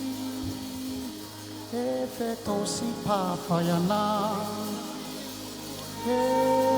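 Live worship band music. A held chord plays at first, and a short melodic line with bends and vibrato comes in from about two seconds in. A new sustained chord swells in near the end.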